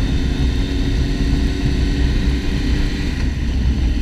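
Motorcycle running steadily at road speed, a low engine drone under heavy wind rush on the rider's microphone.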